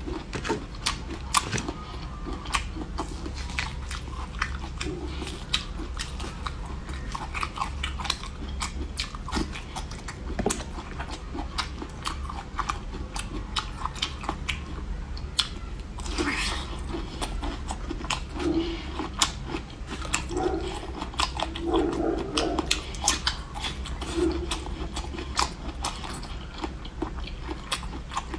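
Close-miked biting and chewing of soft boiled bamboo shoot, with many small wet mouth clicks at an irregular pace.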